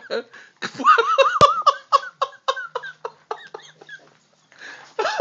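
A person laughing hard in quick repeated bursts, dying away about three and a half seconds in, then starting again near the end.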